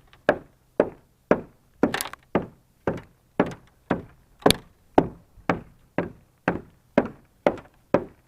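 Steady, even blows at about two a second, chipping a glaze of ice off a pickup truck's body.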